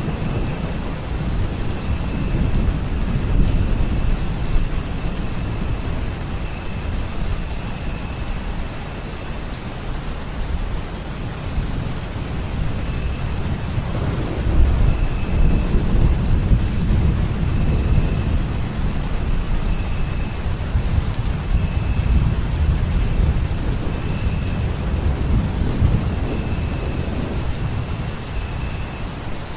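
Steady rain with low, rolling thunder rumbling underneath, the rumble swelling about halfway through.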